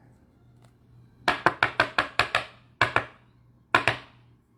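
A run of quick, sharp taps or clicks, about eight in a second, then one more and a close pair near the end.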